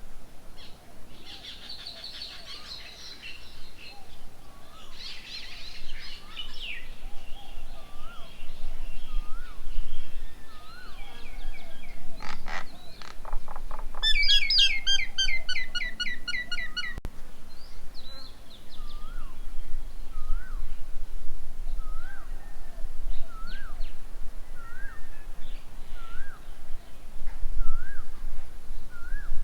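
Several birds calling. There is chattering in the first few seconds, then a loud, fast run of harsh notes about halfway through, then a short rising call repeated about once a second.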